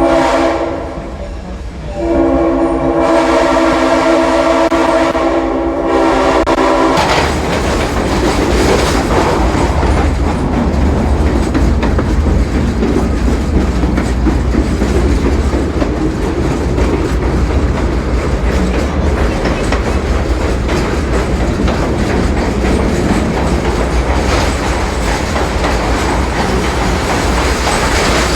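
A locomotive sounds two long chime blasts, the second lasting about five seconds. The train then rolls on with a steady low rumble and rail clatter, heard from aboard a passenger car.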